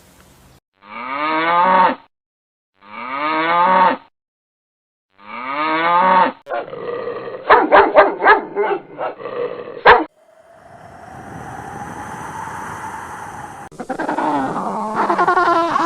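A run of different animal calls. It opens with three loud calls, each about a second long and falling in pitch, with short gaps between them. These are followed by a jumble of sharp clicks and cries, a rising hiss, and more calls near the end.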